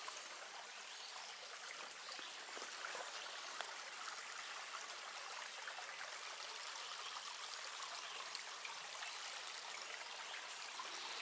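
A small creek running steadily, an even babble of flowing water, with a few faint clicks.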